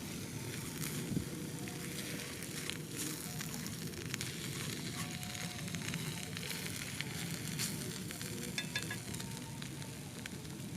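Campfire sizzling steadily, with many small crackles and pops scattered through it.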